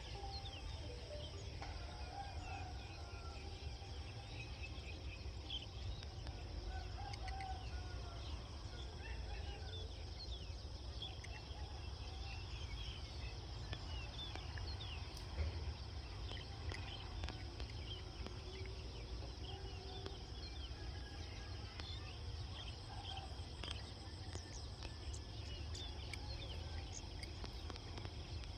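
Rural outdoor ambience: chickens clucking and calling, with many short bird chirps over a steady insect drone and a constant low rumble.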